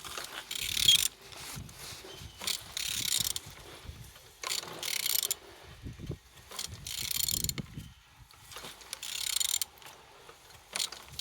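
A used car engine being turned over by hand with a wrench on the crankshaft, in repeated strokes about every two seconds, each with a short rasping, ratchet-like mechanical noise. The engine turns freely, a sign it is not seized.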